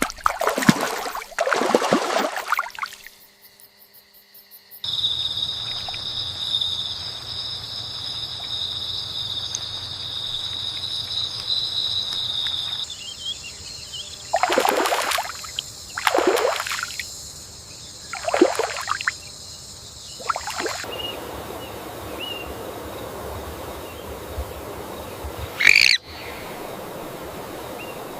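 Rainforest ambience: a steady high insect drone fills most of the middle, broken by several short rushes of noise, and a single brief rising bird call sounds near the end over a soft background hiss.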